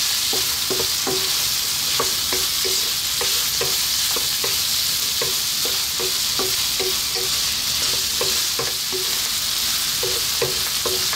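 Chunks of lamb and chopped onion sizzling steadily in oil in a frying pan, while a wooden spatula stirs them with short scraping strokes against the pan, a few times a second.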